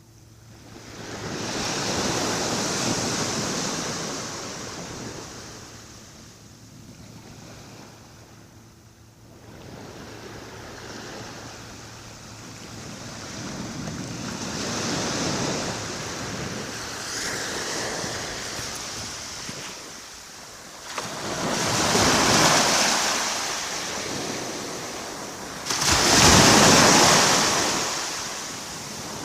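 Small waves breaking gently on a beach, each one washing up the shore with a hiss and then drawing back, with quieter pauses between. Four or five waves come in, and the loudest arrives near the end.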